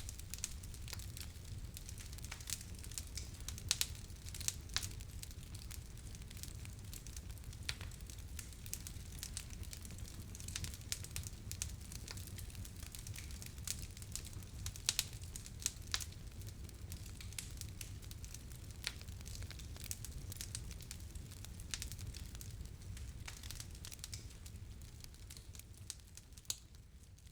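Wood fire crackling in a fireplace: irregular sharp pops and snaps over a steady low rumble, fading down near the end.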